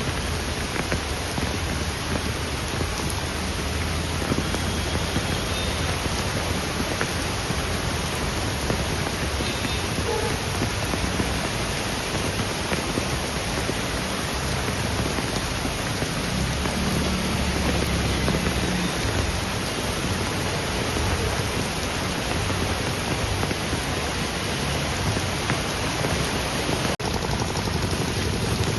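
Heavy rain falling steadily, a dense, even hiss with no let-up. A low rumble sits under it about halfway through.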